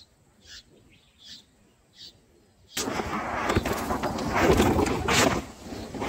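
Bulbul nestlings give short, faint high peeps about once a second. About three seconds in, a sudden loud, harsh begging chorus starts, mixed with the flutter of the parent bulbul's wings at the nest.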